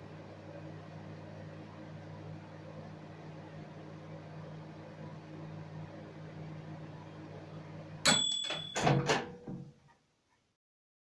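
Saturn ST-MW7179 700 W microwave oven running with a steady low hum; about eight seconds in, the timer runs out with a sharp click and a short ringing end-of-cycle signal, the hum stops, and a few more clicks follow before silence.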